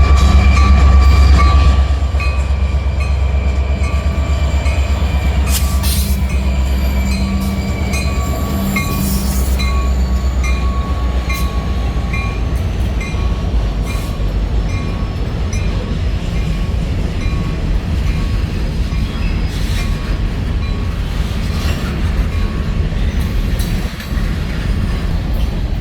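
A freight train rolling past close by, loudest for the first two seconds and then a steady rumble of cars going by. Wheels click over the rail joints, with scattered sharper clanks and a faint wheel squeal.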